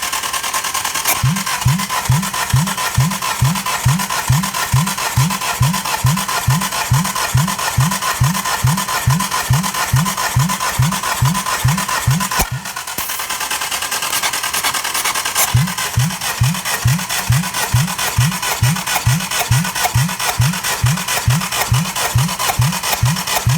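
Hyundai G4JP 2.0 DOHC sixteen-valve engine being cranked on its starter for a compression test: an even beat of about two and a half pulses a second, one for each compression stroke, over the starter's whirr. It stops for about three seconds near the middle, then cranks again.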